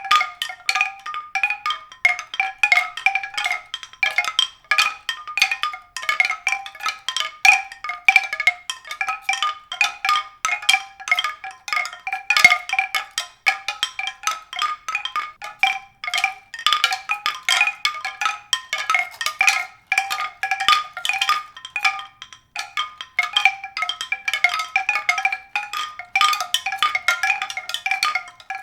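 Mallet-percussion music: a steady stream of quick struck notes, several a second, circling a few recurring pitches.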